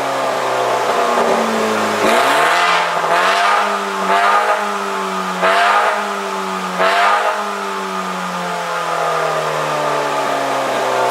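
BMW M135i F40's turbocharged 2.0-litre four-cylinder engine running through a Fi Exhaust stainless sport exhaust. The revs ease down, then dip and climb again, and there are several short, louder bursts spread through the middle.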